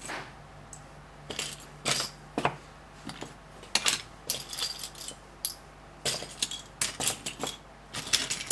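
Loose plastic LEGO pieces clicking and clattering against each other as they are spread out and picked through by hand, in short irregular spells of rattling.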